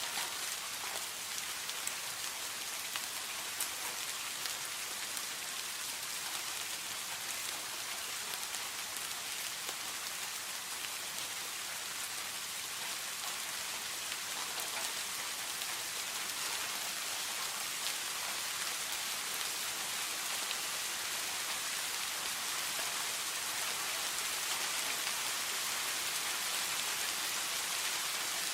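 Steady rain falling and pattering on a surface, with a dense hiss of many small drop impacts.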